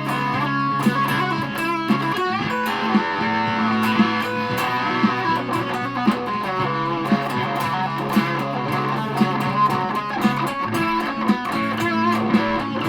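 Aria Pro II Thor Sound electric guitar played through a Joyous Dream super fuzz pedal, its tone thick with fuzz. It plays held low notes under quickly picked higher notes, with many pick attacks.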